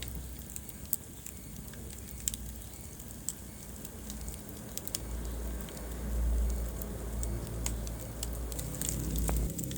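Wood fire burning in a fireplace: irregular sharp crackles and pops over a low rumble of the flames, which swells from about halfway through and falls away just before the end.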